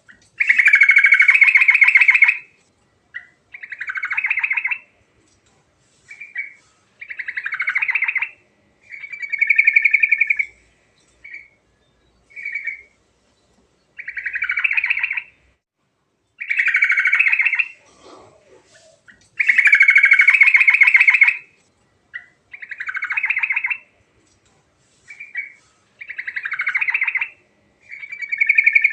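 Yellow-vented bulbul (trucuk) singing: a string of short, rapid phrases, each up to about two seconds long, with brief pauses between them.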